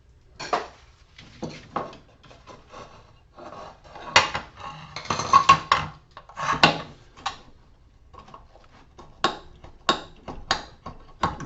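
Small metal parts, screws and hand tools clinking and rattling as scrap is taken apart by hand: irregular knocks, with a louder stretch of clattering about four to seven seconds in and a few sharp single clicks near the end.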